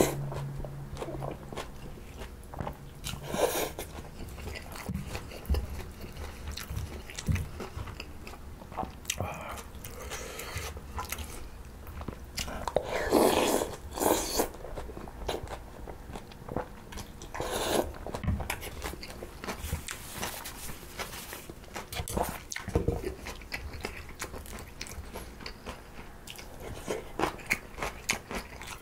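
Close-miked chewing and crunching of mulhoe, a spicy Korean cold raw-fish soup with crisp sliced vegetables, taken in repeated mouthfuls, with utensils clicking against the bowl now and then. A louder spell of mouth noise comes about thirteen seconds in.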